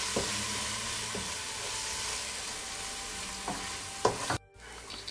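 Masala of onion, ginger-garlic paste, yogurt and chilli-coriander powder sizzling in ghee and oil in a kadai as it is stirred, with a few short knocks against the pan. The sound cuts off abruptly near the end.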